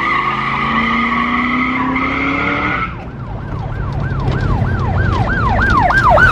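A steady high-pitched squeal for about three seconds, then a siren wailing up and down in quick sweeps that come faster and faster.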